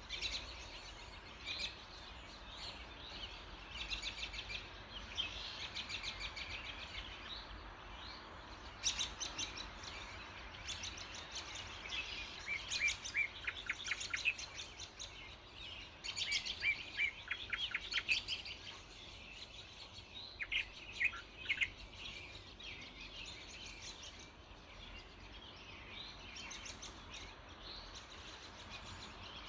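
Several songbirds singing at once in an early-morning chorus: rapid trills and chirps, with brighter runs of quick down-slurred notes around the middle, over a steady low background hum.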